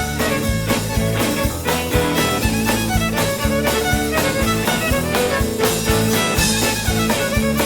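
Band playing an instrumental passage over a steady beat, with no singing.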